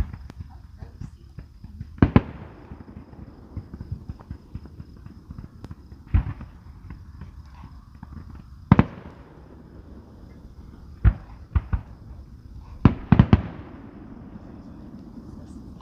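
Fireworks display: aerial shells bursting with sharp bangs every few seconds, each trailing off in a fading rumble, with a quick run of several bangs near the end.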